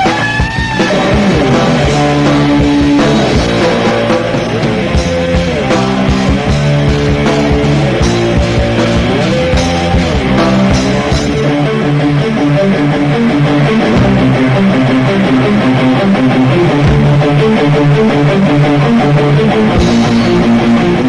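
Heavy metal band playing live: distorted electric guitars, bass and drums in an instrumental passage, with guitar bends and riffing.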